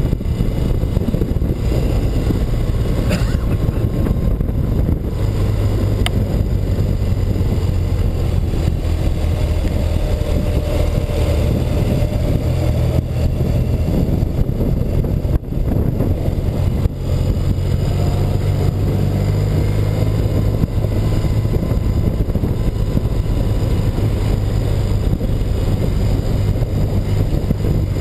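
1984 BMW R100RS's air-cooled flat-twin engine running steadily as the motorcycle is ridden, heard through a noisy haze of wind and road rush.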